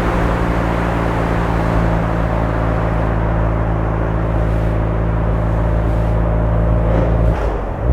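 Suzuki Swift Sport ZC33S's 1.4-litre turbo four-cylinder running through a Fujitsubo aftermarket exhaust, holding steady revs at cruise with road noise underneath. Near the end the engine note drops away briefly, then picks up again.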